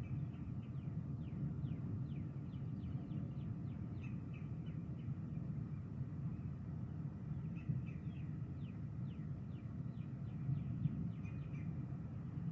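Birds chirping, in repeated clusters of quick, short, high notes that slide downward, over a steady low rumble.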